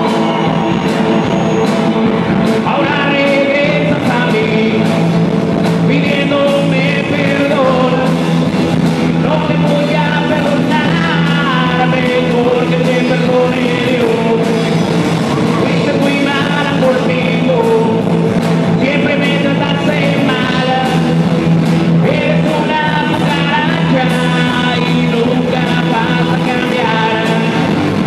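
Rock song with a singer over a steady beat, played loud through a sonidero dance sound system.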